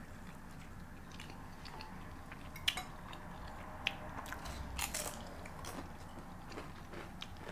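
A person chewing food, with a few sharp, crisp crunches spread through it.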